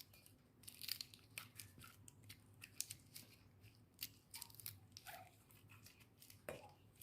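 Faint, irregular scraping strokes of an eggplant being peeled by hand, a soft scrape every half second or so.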